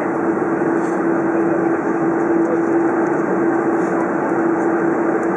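Steady cabin noise inside a Boeing 747-400: an even rush with a constant low hum running through it.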